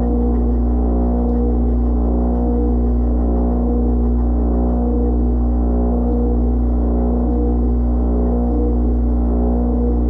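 Dishwasher running, heard from inside the tub: a steady, loud motor and pump hum with a faint regular pulse a little slower than once a second.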